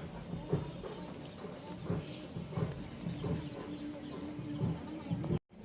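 Steady high-pitched insect buzz, with a run of soft low thuds about every two-thirds of a second.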